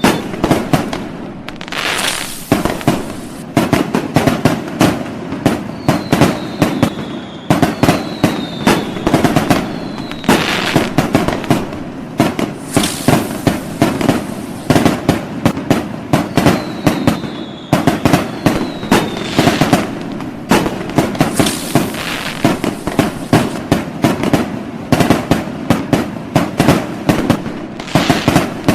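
New Year fireworks going off without pause: dense, rapid cracking and popping bursts, with short falling whistles now and then and a few hissing rushes.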